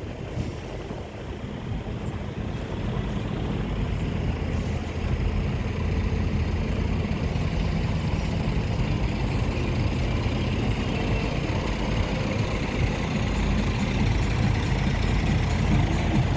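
Scania truck engine running with a steady low rumble that grows gradually louder.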